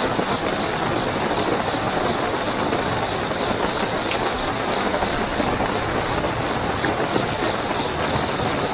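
Steady heavy rainfall with crickets trilling continuously at a high pitch over it, and a few sharp drops ticking now and then.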